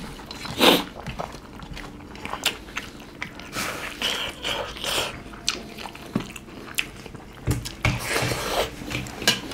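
Two people eating smoked-pork rice porridge by hand, close to the microphone: chewing and mouth smacks heard as irregular short, sharp clicks and smacks.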